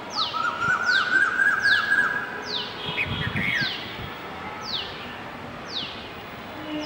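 Several birds calling. One repeats a short high call that falls in pitch, at first about twice a second and then about once a second. Another gives a warbling, rising trill in the first two seconds. A few low thumps come about three seconds in.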